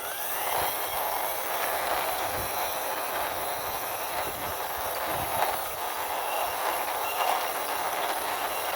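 Wheels of a toy cement mixer truck rolling steadily along a surface as it is pushed by hand, a continuous rolling rumble with a few small clicks.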